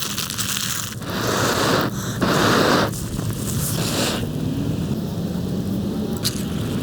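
Thunderstorm: steady heavy rain over a continuous low rumble of thunder, with two louder surges of noise about one and two seconds in.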